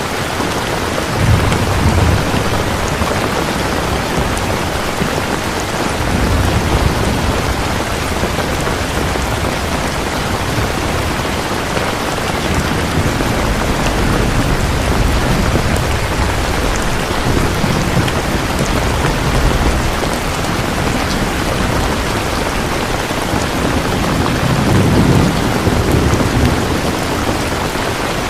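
Steady heavy rain falling, an even hiss, with low rumbles that swell and fade several times.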